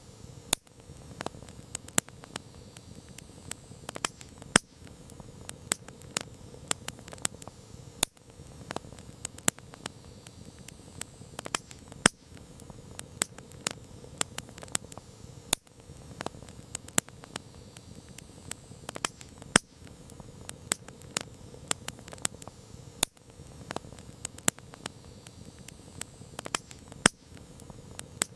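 Campfire crackling: irregular sharp pops and snaps of burning wood over a steady low hiss of the flames.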